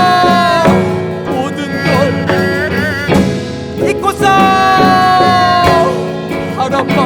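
Korean traditional-fusion (gugak) ensemble music: a long held melody note that slides slightly downward, then wavering ornamented phrases, then a second long sagging note about four seconds in, over a drum and percussion accompaniment.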